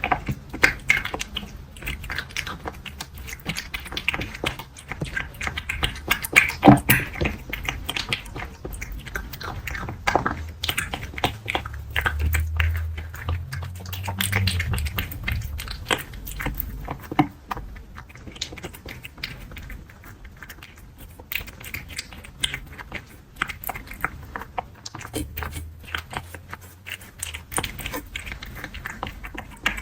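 A cat crunching dry kibble, with many quick irregular crunches and clicks of chewing, heard close up.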